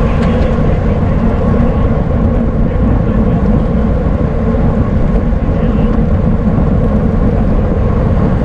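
Steady, loud wind rush on the microphone of a camera riding in a bicycle criterium, with faint steady hum from the moving bike.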